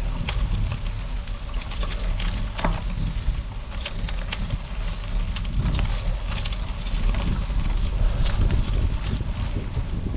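Wind buffeting the microphone while riding a bicycle on gravel: a steady low rumble, with scattered crackles and clicks from the tyres on loose gravel.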